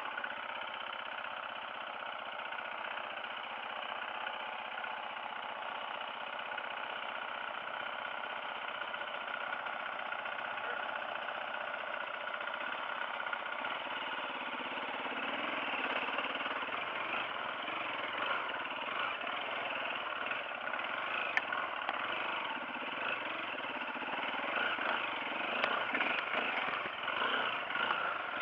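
Dirt bike engine running steadily while riding a trail, with a few sharp clicks and a rougher, more uneven sound in the second half.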